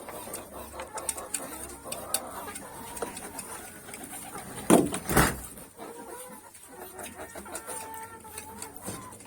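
Domestic chickens clucking while they are fed, with many short ticks and taps. A loud, brief noisy burst comes about five seconds in.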